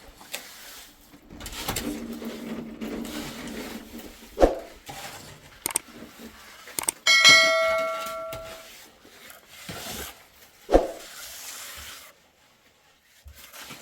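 A metal object struck once about seven seconds in, ringing with a clang that fades over a second and a half, with a few dull knocks and scraping before and after.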